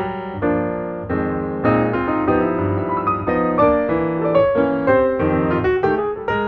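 Background piano music, a run of single notes and chords at an easy pace.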